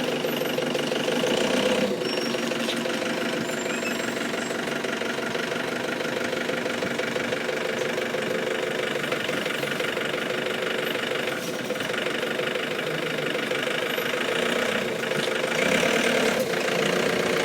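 A vehicle engine running steadily, rising a little near the end.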